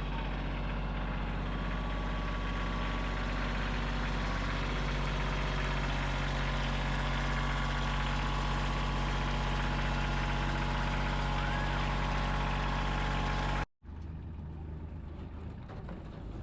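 A heavy engine running at a steady, unchanging speed, with a deep even hum. It cuts off abruptly near the end, giving way to a quieter outdoor background.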